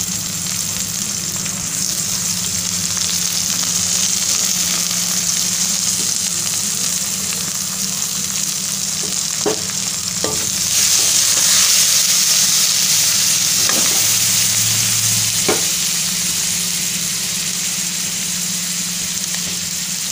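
Onions, green chillies and onion and garlic paste sizzling in hot mustard oil in a kadai. The sizzle swells louder about halfway through, and the stirring spoon knocks against the pan about four times.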